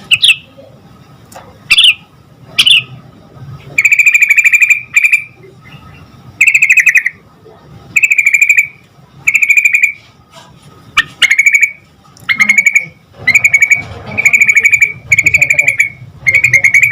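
Yellow-vented bulbul (trucukan) singing loudly: a few short rising notes at first, then a run of rapid bubbling, chattering phrases repeated about once a second.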